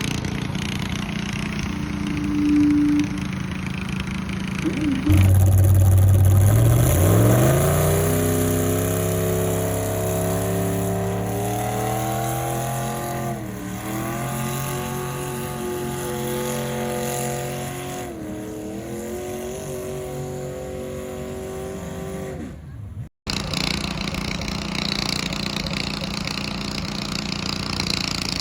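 Garden pulling tractor engine revving up under load: its pitch climbs over several seconds, then holds high with two brief dips before falling away. Steady engine running comes before and after.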